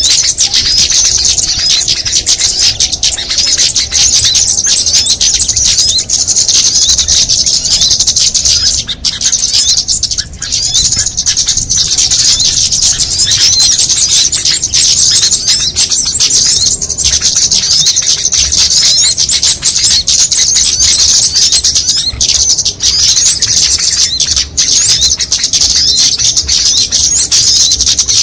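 Bird-lure recording of many small songbirds calling at once: a dense, unbroken chorus of fast, high-pitched chirps and trills, used to draw small birds in.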